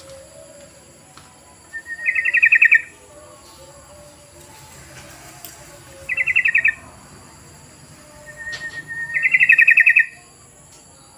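Yellow-vented bulbul (trucukan) calling: three loud bursts of fast, bubbling chattering notes, spaced a few seconds apart. The first and last bursts are introduced by a thin, steady whistle-like note.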